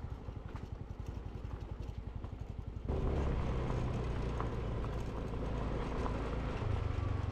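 Motorcycle engine running while riding, a fast steady pulsing that gets louder about three seconds in.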